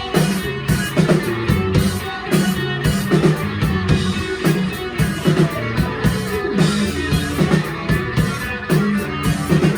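Live rock band playing: a bass guitar line stepping between notes under electric guitar, with a drum kit keeping a steady beat.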